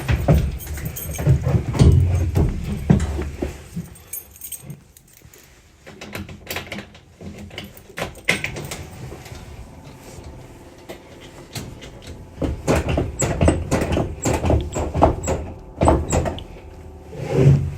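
Irregular knocks, clicks and rattles, loudest near the start and again near the end, with no engine running yet.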